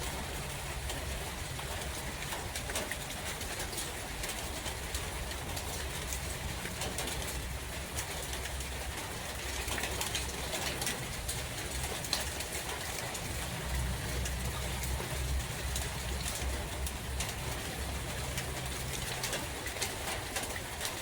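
Steady rain falling in a forest, a dense patter of drops, with gusting wind rumbling low and swelling more strongly in the second half.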